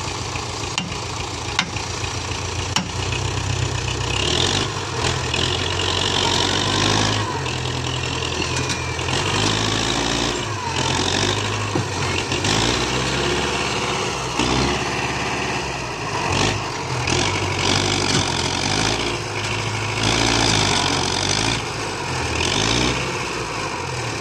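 Belarus 510 tractor's diesel engine running, its speed rising and falling several times, with a few sharp clicks in the first few seconds.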